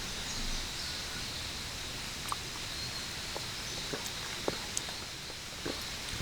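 Outdoor woodland ambience: a steady hiss with a faint high steady tone and scattered small ticks and crackles.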